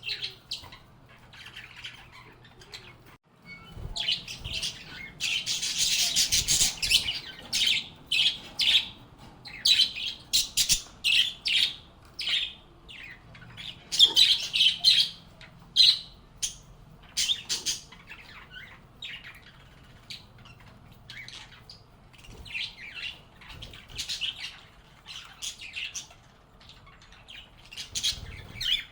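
Several pet lovebirds (Agapornis) chirping in quick, short, high calls that come in busy clusters. The calls are densest around five to seven seconds in and again around fourteen seconds, then thin out before picking up near the end.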